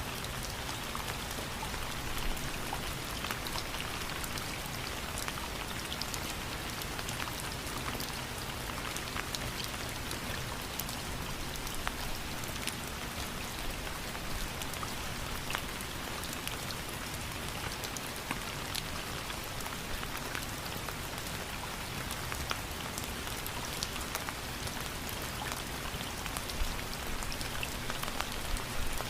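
Steady rain falling, with many individual drops ticking on a hard surface over an even hiss.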